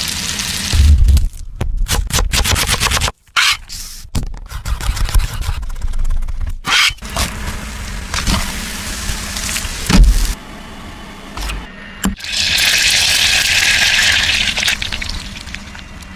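Food-preparation sounds cut together in quick edits: scraping and knocking, then a strong steady hiss for about three seconds near the end.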